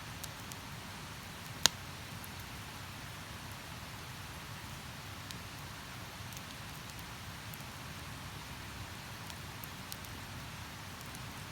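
Wood campfire crackling, with sparse sharp crackles and one loud pop about a second and a half in, over a steady hiss.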